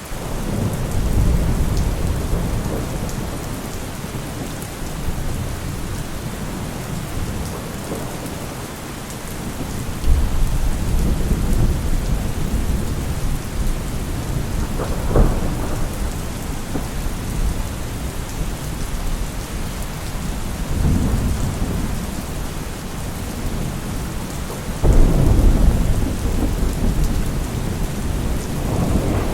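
Heavy rain falling steadily, with thunder rumbling again and again. Low rolls swell near the start, about a third of the way in, and strongly near the end, with a sharper clap about halfway through.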